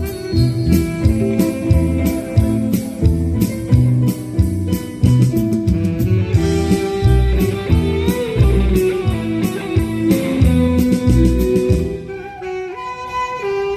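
Band playing an instrumental passage of a pop song: a guitar-led melody over bass and a steady drum beat. The sound thins out briefly near the end before the full band comes back in.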